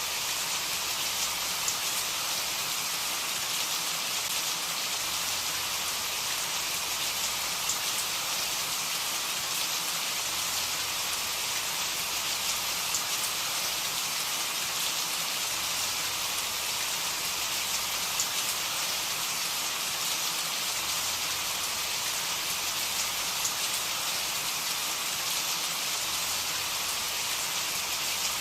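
Steady, even rain falling on a surface, a constant hiss with faint scattered drop ticks.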